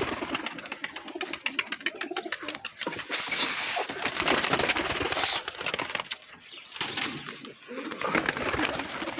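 Domestic pigeons with wings flapping and clapping and some cooing as the flock is let out to fly. A loud high hiss comes about three seconds in.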